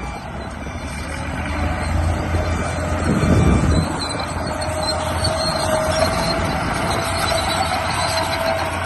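Radio-controlled model bulldozer running: a steady mechanical whine with squealing, with a louder low rumble for a moment about three seconds in.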